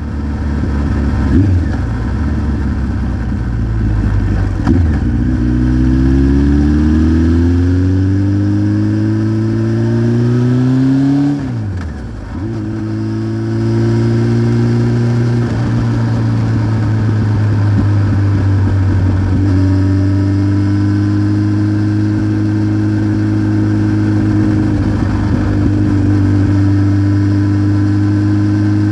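1993 Honda CBR900RR Fireblade's inline-four engine running through a Remus exhaust while riding: it pulls with a rising pitch for several seconds, drops sharply about 11 seconds in as the throttle is shut, then holds a steady pitch at cruising speed.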